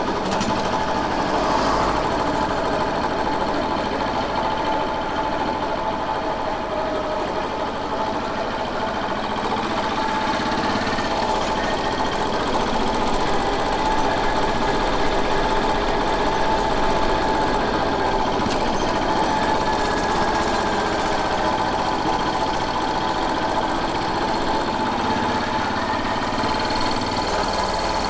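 Royal Enfield Bullet 500's single-cylinder engine running steadily under way, its pitch holding with only slight rises and falls.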